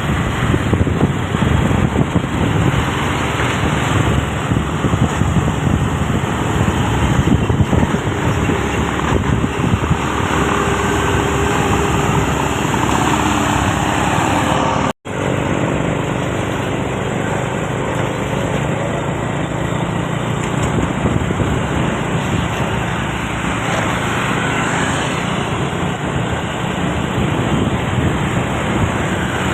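Heavy truck driving on a road amid traffic, engine and tyre noise running steadily; about halfway the sound drops out for an instant and resumes.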